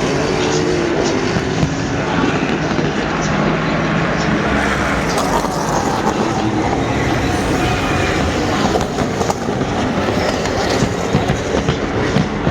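Race car engines at speed on a racetrack, a loud continuous mix of several cars, with a few sharp pops and crackles near the end.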